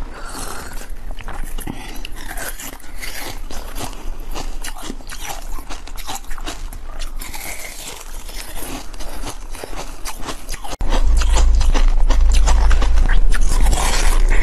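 Close-miked wet mouth sounds of soft jelly being sucked, bitten and chewed: a dense run of small, irregular clicks and squelches. Near the end the sound turns suddenly louder, with a low hum underneath, and the biting and chewing go on.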